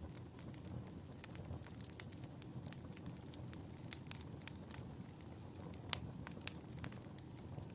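Wood fire burning in a fireplace: a steady low rumble of flames with irregular sharp crackles and pops, two louder pops coming past the middle.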